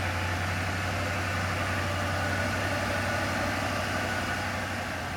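A 4x4 vehicle's engine running steadily on an off-road trail: an even low hum with a constant rushing noise over it.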